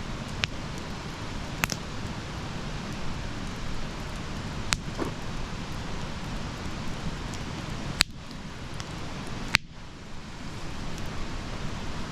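Wood campfire burning: a steady hiss with scattered sharp crackles and pops, the two loudest about eight and nine and a half seconds in.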